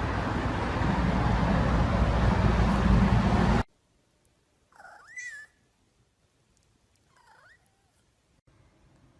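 A loud, dense sound cuts off sharply about three and a half seconds in. A tabby-and-white domestic cat then meows twice: a louder meow that rises and falls in pitch about a second later, and a short, fainter one about two seconds after that.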